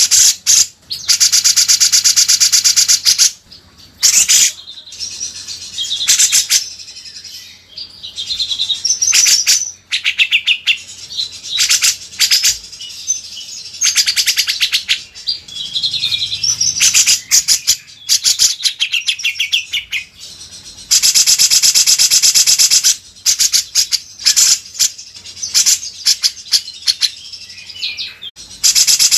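Songbird singing: loud, very fast trills of rapidly repeated high notes lasting a few seconds each, alternating with shorter whistled and chattering phrases.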